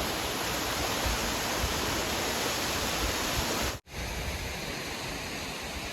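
Small waterfall rushing, a steady, even wash of falling water. It breaks off for an instant about four seconds in and resumes slightly quieter.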